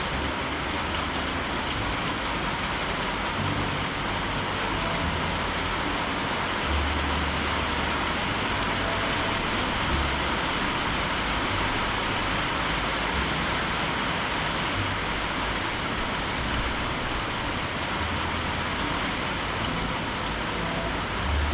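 Heavy tropical rain from a thunderstorm falling steadily: a dense, even hiss.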